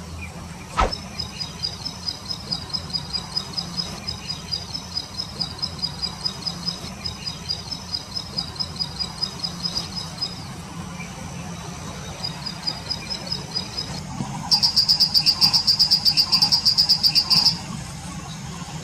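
A prinia (ciblek) singing a long run of high, quick repeated chirping notes, about four a second. It pauses, then bursts into a louder, faster trill for about three seconds before stopping. A single sharp knock sounds just under a second in, over a steady low background rumble.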